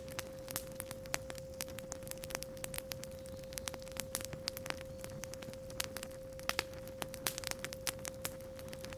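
Campfire crackling with irregular sharp pops, under a steady 528 Hz sine tone.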